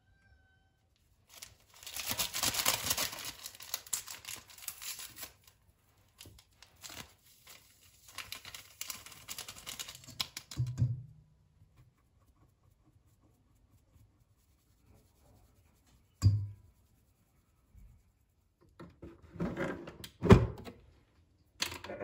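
Rustling and crackling handling noise in two stretches, then a few separate dull thunks of objects being set down.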